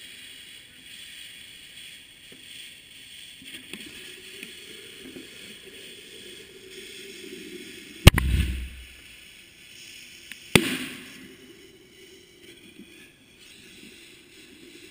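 A 60-tube fireworks cake with a burning fuse hissing between its tubes, then two loud launch bangs about two and a half seconds apart. A short low rumble follows the first.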